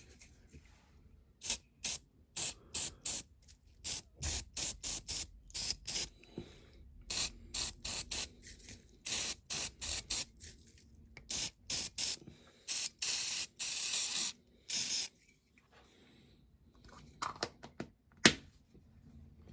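Aerosol spray can fired in a quick series of short hissing bursts, with one longer burst of about a second and a half around the middle.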